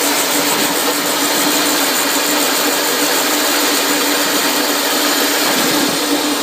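A workshop machine's electric motor running steadily, with a constant hum over an even hiss.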